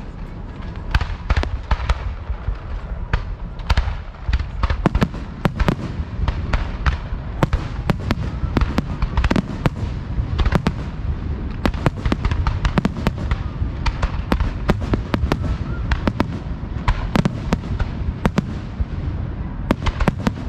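Fireworks show heard close to the launch site: a dense, continuous barrage of shell bursts and launch thumps, several bangs a second over a steady low rumble, with an occasional faint whistle.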